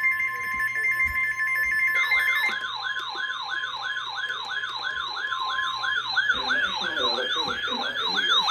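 Weather alert radios sounding for an incoming warning: steady alarm tones at the start, joined about two seconds in by a siren-style alarm that sweeps up and down about three times a second. One of the steady tones stops near the end.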